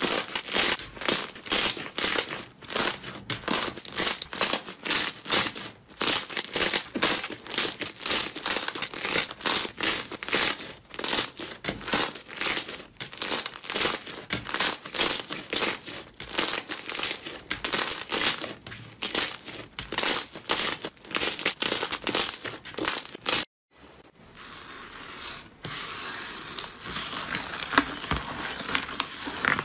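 Slime being squeezed and poked in a quick run of crackly squishes and pops, about three a second. After a sudden cut about three-quarters of the way through, a softer, more continuous crackling texture of slime being handled follows.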